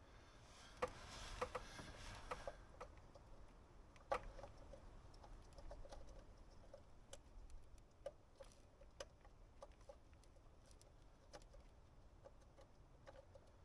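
Faint, scattered clicks and light taps from the oil filter housing parts being handled, with a brief hiss in the first couple of seconds and quiet ticks spread through the rest.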